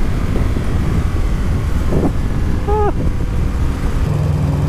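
Ride noise from a 1983 Honda Sabre VF750S: its 750cc V4 engine running under a loud rush of wind on the microphone. A short tone falls slightly in pitch near three seconds in, and just after four seconds the engine settles into a steady even note.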